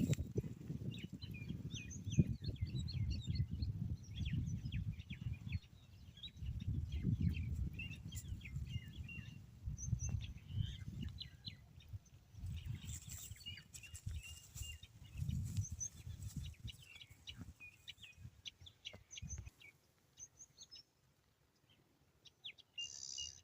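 Small birds chirping in many short, high calls, over a low, uneven rumble that stops about twenty seconds in.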